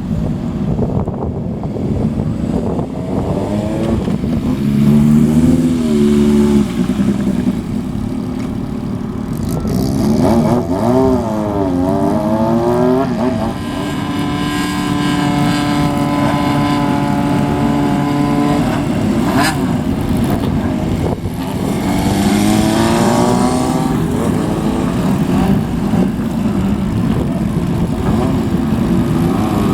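Classic custom motorcycles with aftermarket exhausts revving and riding off one after another, engine notes rising and falling as they blip the throttle and pull away. About halfway through one engine holds a high, steady rev for several seconds before dropping off.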